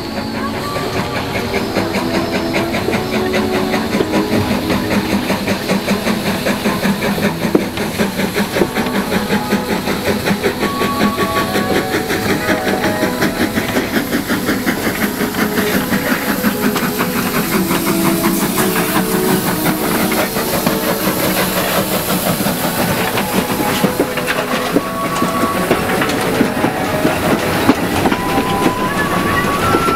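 Baie de Somme narrow-gauge heritage train running steadily, with a fast even rhythmic clatter and a hiss of steam.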